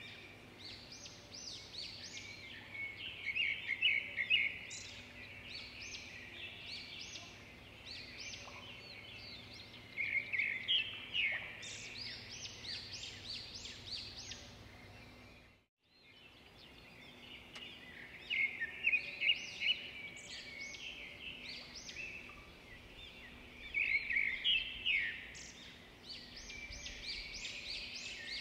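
Many birds chirping and calling at once, short overlapping chirps and trills with louder flurries every several seconds. The sound drops out briefly about halfway through, then the calls carry on.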